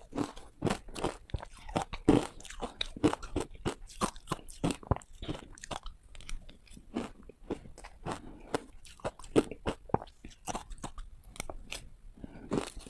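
A person biting into hard ice close to the microphone: a dense, irregular run of sharp crunches, several a second.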